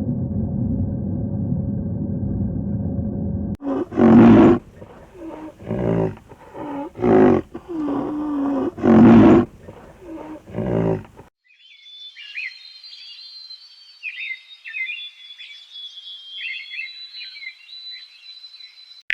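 A steady low rumble, then an abrupt cut to an animal giving a series of loud, deep calls, about half a dozen over seven seconds. After another abrupt cut, faint high chirping fills the rest.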